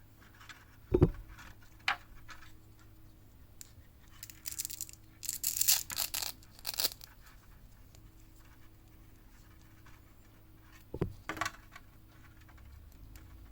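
Box contents and packaging being handled: a knock about a second in, several short bursts of packaging rustling in the middle, and another knock and rustle near the end.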